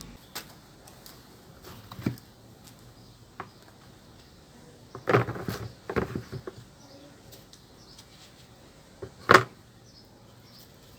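Scattered sharp knocks and clatter of parts and tools being handled during longboard restoration work: a single knock, then a burst of clattering knocks around the middle, and the loudest knock near the end.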